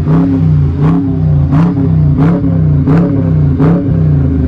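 A 2021 Dodge Charger R/T's 5.7-litre Hemi V8, with its resonators deleted, being revved in quick repeated throttle blips about every 0.7 seconds. The exhaust is loud and sharp on each blip.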